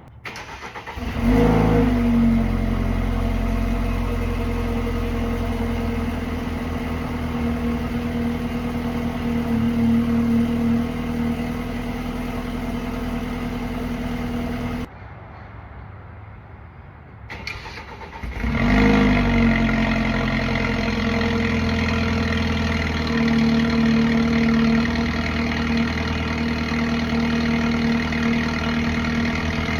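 BMW 328i's N20 2.0-litre turbo four-cylinder cold-started twice: each time a brief crank, a rev flare as it catches, then a steady fast cold idle. The first start is on the stock exhaust; the second, after a cut, is with the resonator deleted (straight pipe mid-section), which the owner hears as a deeper, more aggressive tone.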